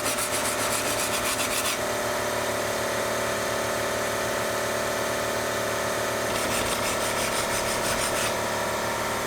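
Electric power tool running steadily with a motor hum, turned on just before and running throughout. A harsher hiss rises over it for the first second and a half and again from about six and a half to eight seconds in.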